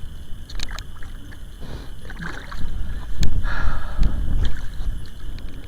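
Water splashing and sloshing as a hooked catfish is brought in to the river bank, over a low wind rumble on the microphone, with a few sharp clicks.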